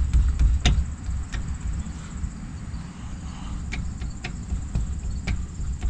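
Scattered light metallic clicks and taps from parts being handled on a truck's rear differential, the sharpest about two-thirds of a second in, over a low rumble. Insects chirr steadily and high in the background.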